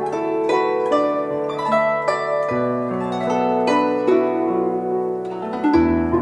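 Chinese light instrumental music: a guzheng plucking a flowing melody, each note ringing and fading, over held low notes.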